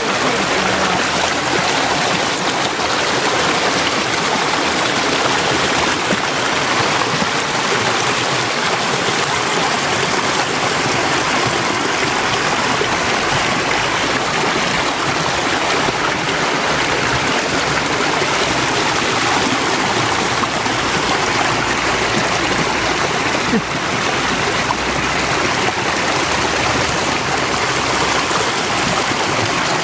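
Steady rushing of a woodland stream flowing over rocks.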